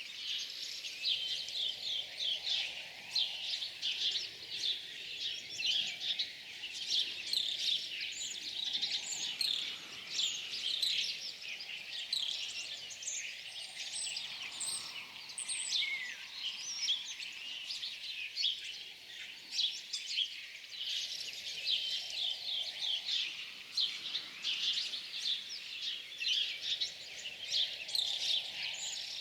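Several birds singing and chirping at once, a dense chorus of quick high chirps and trills that goes on without a break.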